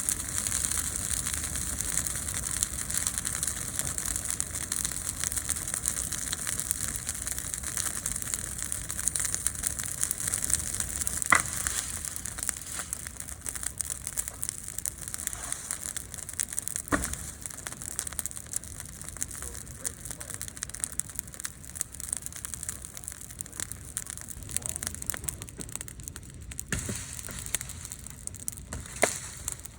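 Medium-large wood campfire burning with a steady hiss and dense, fine crackling, with a few sharper pops, the clearest about a third of the way in, just past halfway and near the end.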